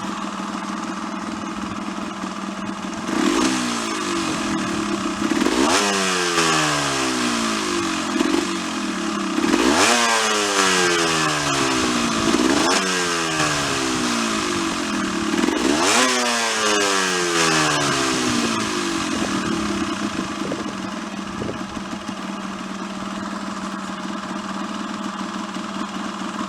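Yamaha DT125R single-cylinder two-stroke engine idling, then blipped about five times. Each rev rises sharply and falls back down slowly before it settles to a steady idle near the end.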